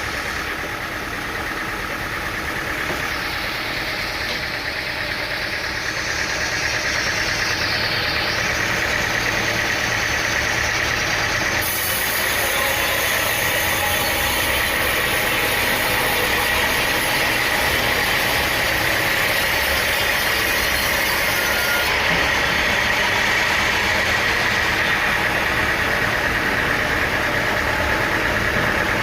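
Sawmill machinery running steadily: an engine drone with a constant high whine over it, growing a little louder about six seconds in.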